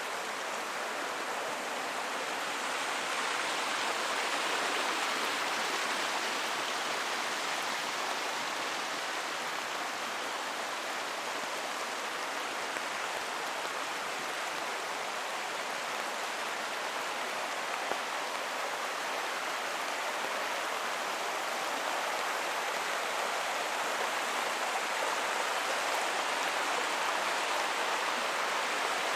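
A forest creek running: a steady rush of flowing water.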